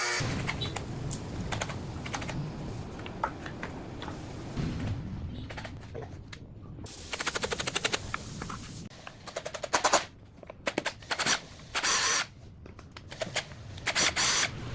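Short bursts of rapid, evenly spaced clicking from a workshop tool, stopping and starting with gaps between, over a low running noise.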